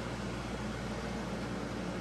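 A vehicle engine running steadily with a low hum under an even hiss of road and wind noise.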